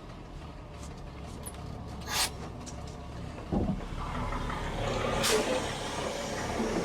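Truck engines running under load during a tow-start of a Deuce and a half military truck, with two short bursts of hiss about two and five seconds in. The rumble builds over the last few seconds while the towed truck's engine is turned over without catching.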